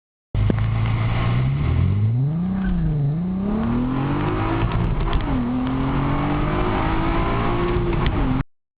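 Volkswagen Golf Mk4 petrol engine accelerating hard through the gears on a 0–100 km/h run. The revs climb, fall back at an upshift about two and a half seconds in, and climb again. They fall at a second upshift about five seconds in, then rise once more before the sound cuts off suddenly near the end.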